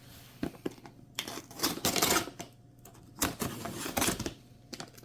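A firework cake's packaging being cut and torn open by hand: irregular rustling and tearing bursts mixed with sharp clicks and knocks.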